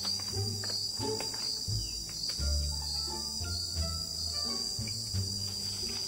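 A steady, high-pitched chorus of insects trilling without a break in an orchard.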